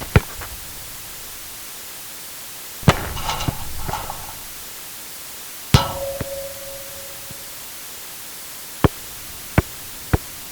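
Soccer ball sound effects: a sharp kick near the start, another hit about 3 s in followed by about a second of rustling, and a hit about 6 s in that leaves a ringing tone. From about 9 s the ball bounces, the bounces coming quicker and quicker as it settles. A steady hiss runs underneath.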